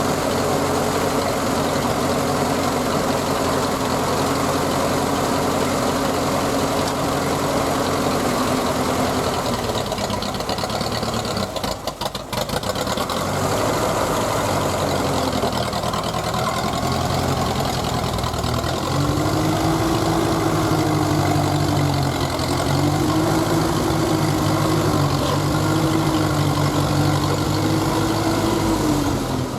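Ferguson TED-20 tractor's four-cylinder TVO engine running steadily. About ten seconds in, its speed sags briefly and then recovers; from about twenty seconds it runs faster, with the pitch wavering up and down. The owner says the engine is tired, with liners needing replacement, and that the carburettor responds poorly to load.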